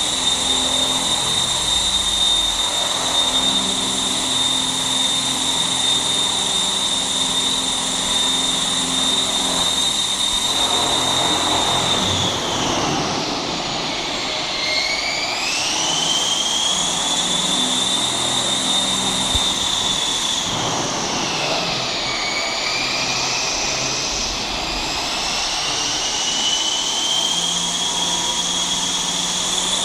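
Electric Align T-Rex 600 ESP radio-controlled helicopter hovering: a steady high motor and gear whine over rotor noise. The whine sags in pitch about 13 seconds in and again about 21 seconds in, each time climbing back to its steady pitch.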